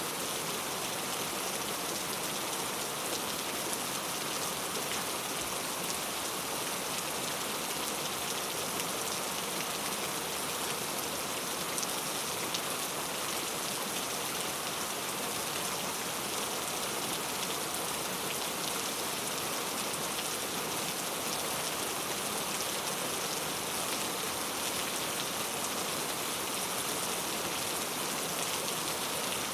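Heavy rain falling steadily, an even hiss of many drops with no change in strength.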